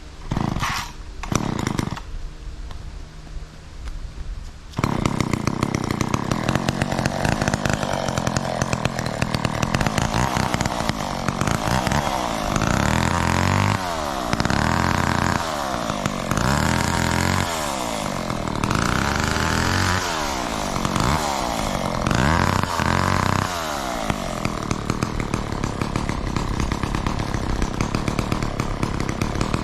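Two-stroke McCulloch Mac 10-10 gasoline chainsaw: two brief sputters in the first two seconds, then the engine catches about five seconds in and runs. It is revved up and down about every two seconds through the middle, then runs steadily near the end.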